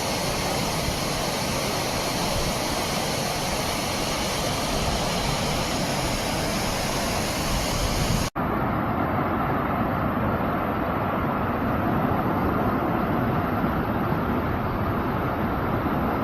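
Floodwater rushing down a wadi, a steady rush of water. About eight seconds in there is a brief cut, after which the rush sounds duller.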